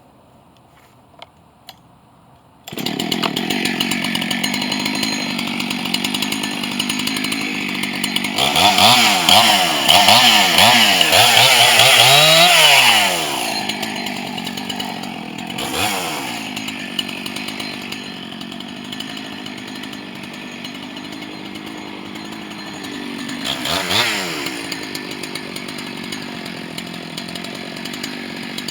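Husqvarna 268 two-stroke chainsaw coming in suddenly about three seconds in and running steadily, then revved hard several times with its pitch rising and falling, loudest around the middle, before settling back to a steady run with two brief revs later on.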